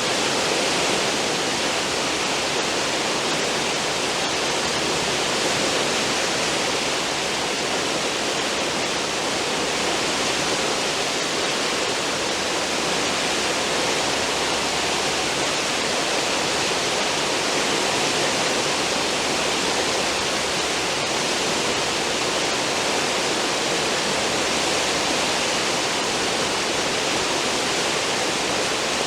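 Churning water in a cruise ship's stern wake, a steady rushing hiss.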